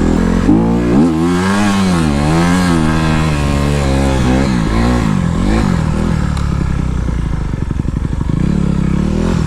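Honda CRF250R dirt bike's single-cylinder four-stroke engine revving up and down several times under throttle, then running lower and steadier for the last few seconds.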